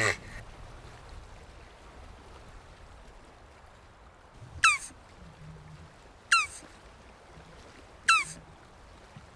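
Three short whistled animal calls, each dropping sharply in pitch. They come about 1.7 s apart, starting halfway through, over a faint background hiss.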